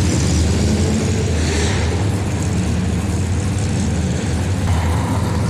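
A car engine running loud and steady, with a dense hiss of noise over it; the sound starts and stops abruptly at edits.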